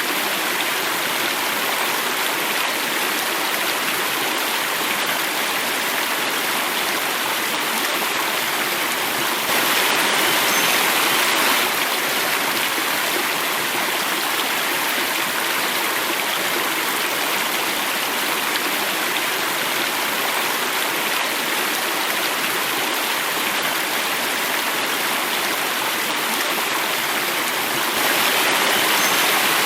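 Water flowing and falling over a small cascade in a stream, a steady rushing that swells slightly twice for a couple of seconds.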